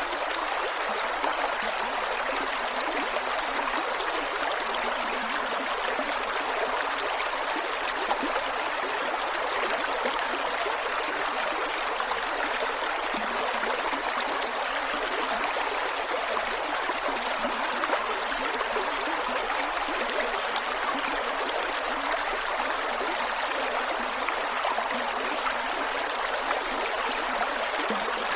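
Creek water flowing over rocks, a steady rush with small gurgles.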